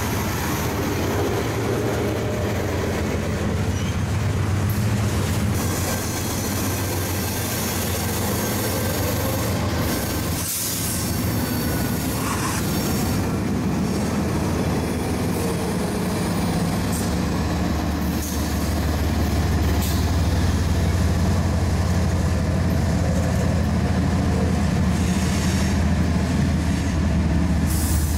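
Freight train rolling steadily past: freight cars rumbling and rattling over the rails. Partway through, mid-train diesel locomotives pass, and a low engine drone grows louder in the last third.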